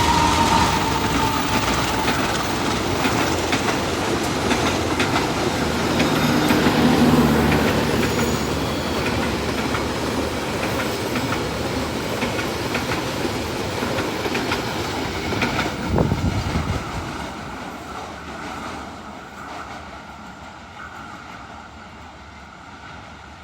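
Passenger train going past, its wheels clattering over the rail joints. A high tone dies away in the first second or two, and the rumble fades steadily over the last several seconds as the train moves off.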